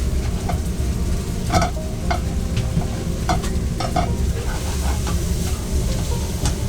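Food stir-frying in a pan with a steady sizzle, and a metal utensil clinking against the pan about seven times. A low rumble runs underneath.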